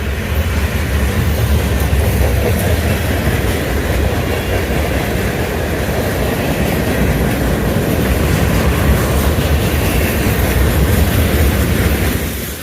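Freight train rolling past: a loud, steady rumble of cars on the rails.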